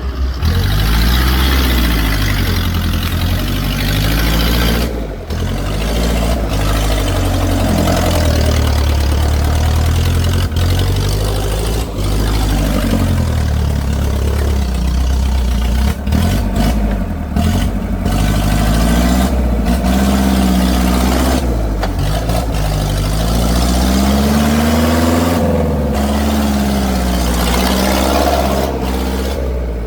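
Tractor engines running under load, revving up and down repeatedly.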